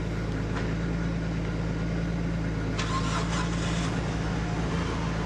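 Nissan Skyline R33 GTS-T's newly rebuilt RB25DET turbocharged straight-six idling steadily on its first run after the rebuild, with the air-fuel ratio reading correctly.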